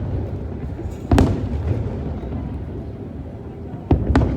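Aerial fireworks shells bursting in the sky: one sharp bang about a second in, then a quick cluster of bangs near the end, over a continuous low rumble of the display.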